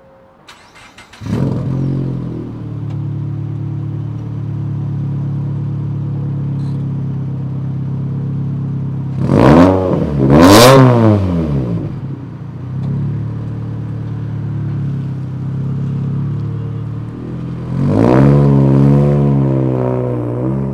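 Turbocharged Scion FR-S's 2.0-litre flat-four engine cranks and catches about a second in, then idles steadily. It is revved hard twice in quick succession about halfway through, then accelerates near the end as the car pulls away.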